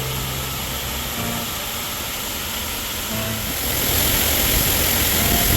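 Steady rushing wind noise on the microphone of a moving electric golf cart, growing louder about four seconds in.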